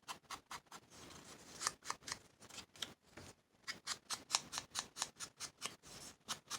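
Ink pad dabbed repeatedly against the edges of a paper cutout, making soft ticks: scattered at first, then a quick steady run of about five a second from about halfway through.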